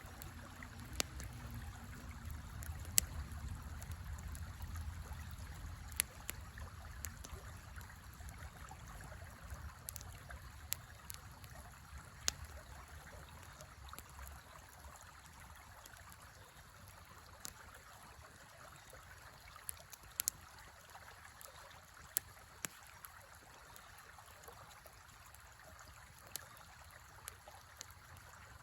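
River flowing steadily, with scattered sharp crackles and pops from a small campfire. A low rumble underneath fades out over the first half.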